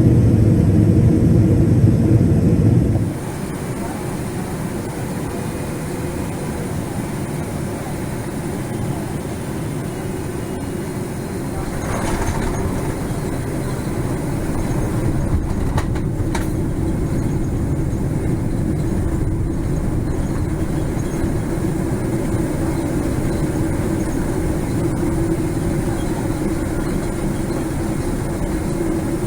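Airliner cabin noise aboard a Boeing 777-300ER: a steady rumble of engines and airflow. A louder, deeper rumble cuts off about three seconds in, and the noise swells a little again about twelve seconds in.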